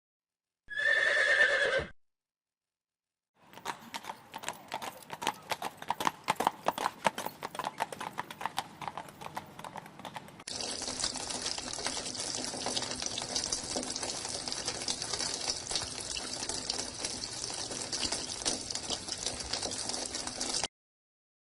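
A short, loud animal call about a second in. After a pause comes a quick, irregular clatter of knocks lasting about seven seconds. Then comes a steady hiss with a low hum for about ten seconds, which cuts off abruptly.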